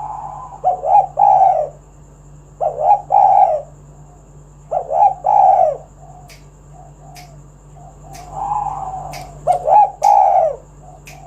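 Spotted dove (tekukur) cooing in short phrases of two or three low, falling coos, repeated about every two seconds, with a softer murmur between some phrases. A steady low hum runs underneath, and a few sharp clicks come in the second half.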